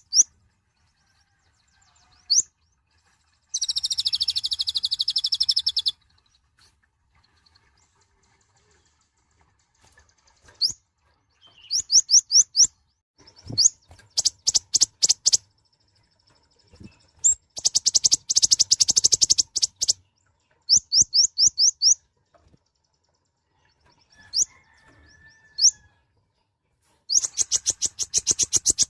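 Kolibri ninja sunbird singing: groups of short, sharp, high chirps alternating with fast, dense trills lasting two to three seconds, with short pauses between phrases.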